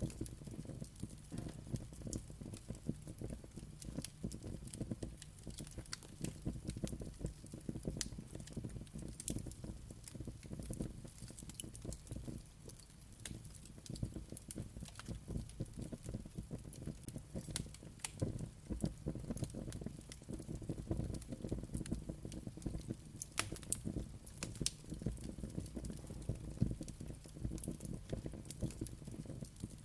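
Wood fire burning in a fireplace, with a steady low rumble of flames and frequent sharp crackles and pops.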